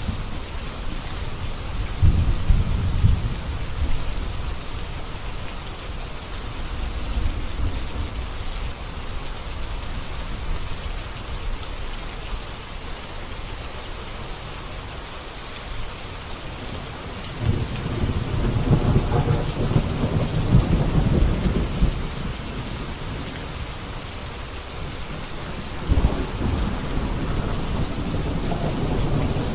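Steady rainfall with rolls of thunder: low rumbles swell about two seconds in, again for several seconds past the middle, and once more near the end.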